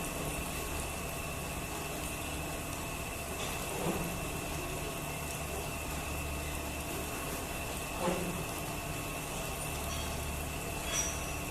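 A motor hums steadily, with a short knock or scrape about every four seconds.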